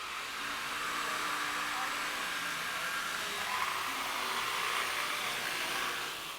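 Electric jigsaw running, a steady motor whine that cuts off suddenly near the end.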